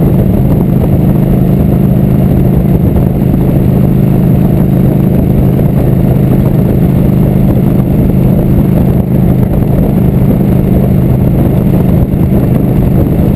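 Motorcycle engine running at a steady cruise with road noise, holding an even pitch and level, with no revving up or down.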